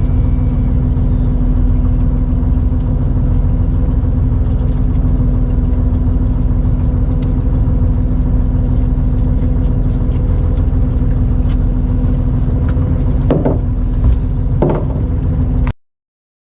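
Fishing boat's engine running steadily with a low rumble and a steady hum, with a few light knocks near the end before the sound cuts off abruptly.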